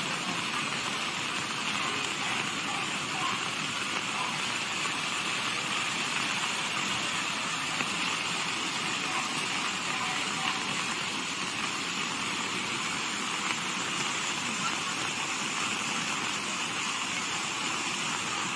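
Steady, unbroken rush of water, as of fast-flowing floodwater.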